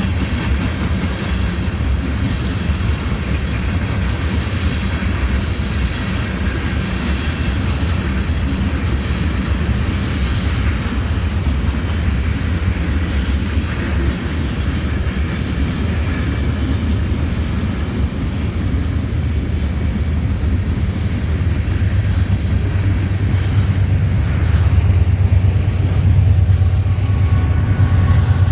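Coal train rolling past with a steady low rumble, growing louder near the end.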